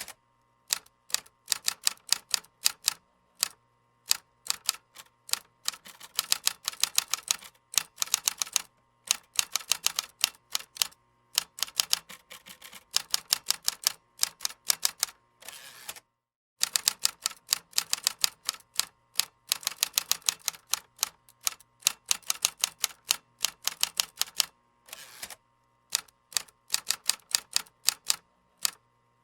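Computer keyboard typing: bursts of rapid keystroke clicks with short pauses between them. The sound drops out completely for about half a second just past the middle.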